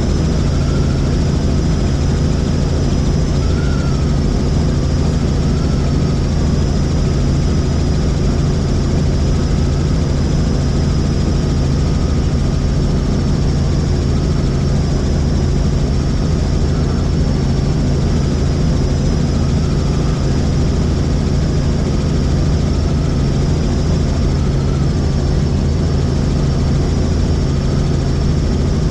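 Helicopter in flight: a steady low drone of rotor and engine with a high whine that wavers slightly over it.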